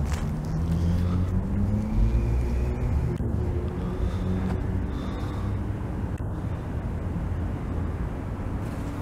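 A road vehicle's engine running as it goes by, a low hum that rises and falls slightly in pitch, over a steady outdoor rumble.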